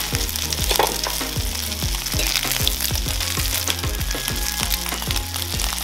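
Eggplant omelette sizzling as it fries in oil, the egg still setting. Under it runs background music with a steady bass beat, and a few light clicks come from utensils.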